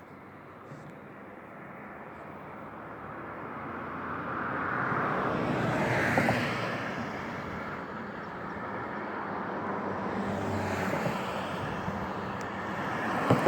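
Road traffic passing by: a vehicle's tyre and engine noise swells to its loudest about six seconds in and fades, then a second one passes around ten to eleven seconds.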